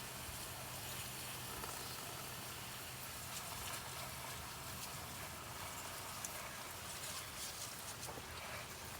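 Campfire embers sizzling steadily as they are doused and put out, with a few faint crackles.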